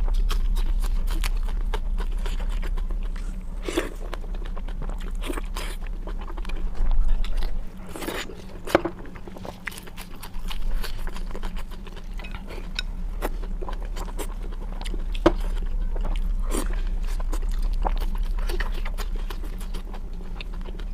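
Close-miked chewing and biting of spiral-cut pork belly: wet mouth smacks and crunches at irregular intervals, over a steady low hum.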